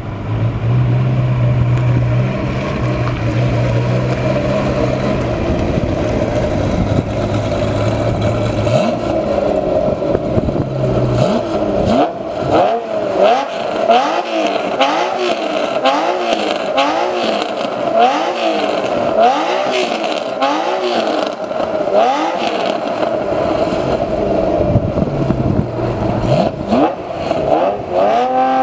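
Ferrari Testarossa's 4.9-litre twelve-cylinder engine with a Fuchs exhaust and race pipes, loud. It idles steadily, then is blipped again and again, about one quick rev a second, before settling and revving up again near the end as the car moves off.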